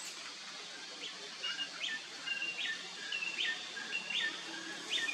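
A bird calling over and over, a short note sweeping down followed by a brief steady whistle, repeated about six times, over a steady background hiss.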